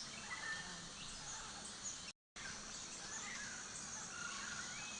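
Faint outdoor nature ambience: a steady hiss with a few short, scattered bird chirps, broken by a moment of total silence just past two seconds in.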